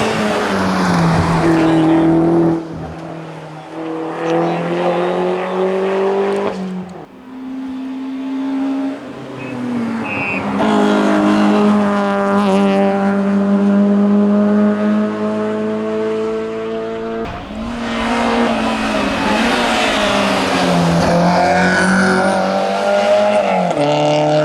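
Hillclimb race car engines revving hard at full throttle, the pitch climbing and dropping sharply with each gear change as the cars pass one after another.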